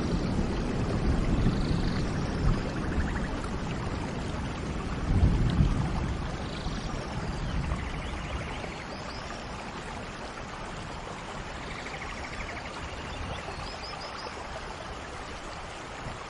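Heavy rain falling steadily, with a low rumble under it and a few faint high chirps. The level drops about halfway through and stays lower to the end.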